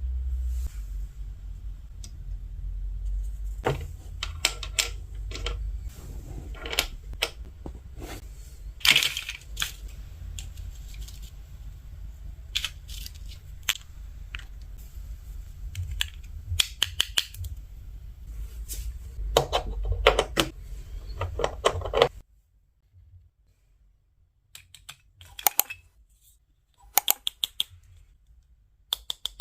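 Small plastic toy parts clicking, tapping and knocking together as they are handled, in irregular bursts over a low hum. The hum cuts off suddenly about three quarters of the way through, leaving a few quieter clicks.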